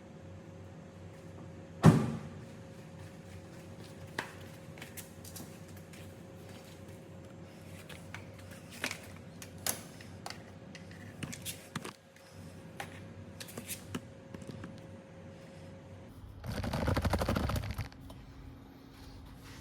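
Hand tools and metal parts being handled during car brake work: a loud knock about two seconds in, scattered light clicks and clinks, then a brief rapid rattle near the end.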